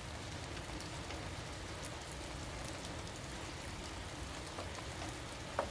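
Heavy rain falling steadily, with scattered drops ticking, and one sharper tap near the end.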